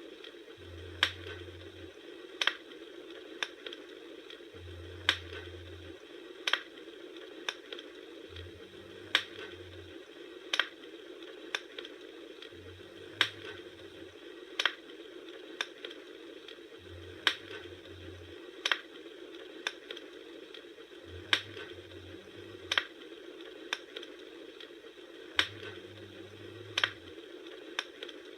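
Campfire crackling: sharp pops about every second and a half over a steady low hiss of burning wood.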